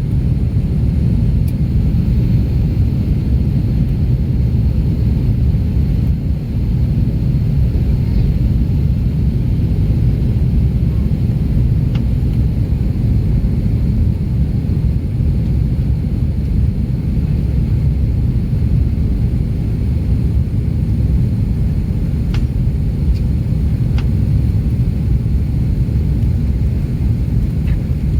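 Steady, loud low rumble of an Airbus A330-300 airliner heard from inside the passenger cabin, with a few faint clicks.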